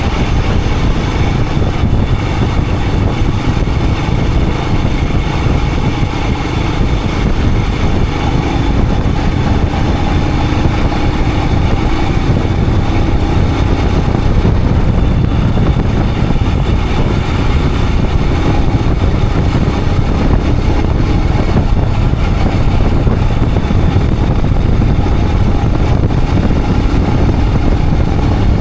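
Royal Enfield Himalayan 411's single-cylinder engine running at a steady pace while riding, with wind and road noise.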